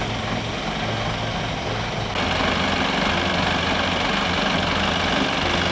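A vehicle engine running steadily, getting louder and noisier about two seconds in as it takes on more load.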